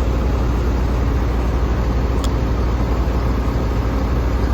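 A large engine running steadily at idle, with a low, slightly pulsing hum and a faint click about two seconds in.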